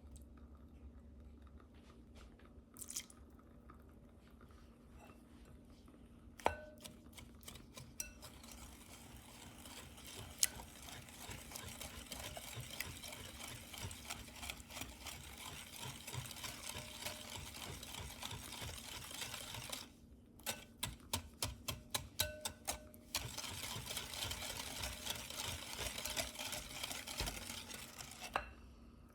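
Ingredients being stirred in a mixing bowl: a steady scraping and swishing with small clicks of the utensil against the bowl. The stirring starts a few seconds in, stops briefly about two-thirds of the way through, then carries on until just before the end.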